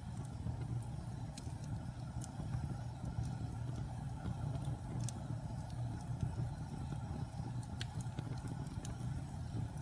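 Fire burning in a fireplace: a steady low rumble of flames with a few sparse, sharp crackles.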